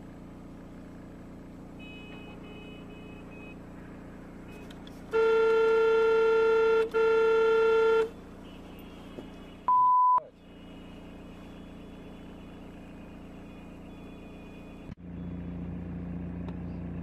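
A vehicle horn sounds two long blasts, the second just after the first, over steady road and engine noise. A short high single-tone beep follows a couple of seconds later, and the running noise steps up louder near the end.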